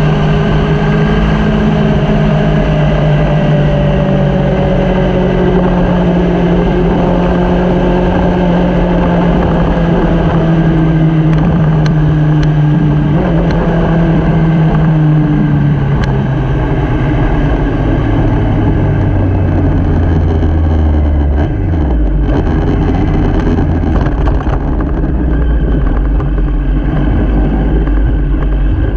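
Motorcycle engine running under way, heard with steady rushing noise. Its note slowly falls as the bike eases off through the first half, drops lower about two-thirds through, and starts to rise again at the very end.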